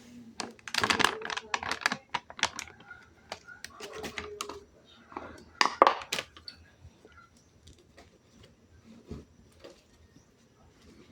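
Clicking and clattering of small hard objects being handled, in dense bursts through the first six seconds with a sharp knock near the six-second mark, then occasional light taps.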